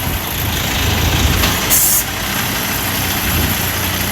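Semi truck's diesel engine running low and steady as the rig backs up, with one brief sharp hiss of air a little under two seconds in.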